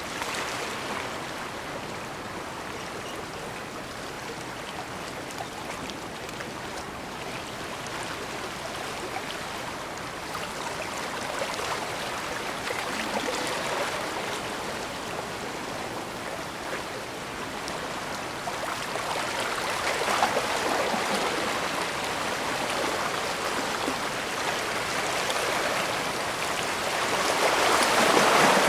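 Small ocean waves washing in along the shore of a bay: a steady wash of water that swells every several seconds, the loudest surge near the end.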